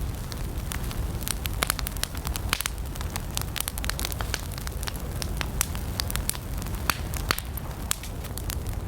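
Wood campfire burning: frequent, irregular sharp crackles and pops of burning wood over a low, steady rumble of the flames.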